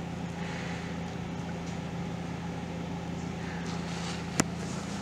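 Steady low machine hum, with a single sharp click about four and a half seconds in.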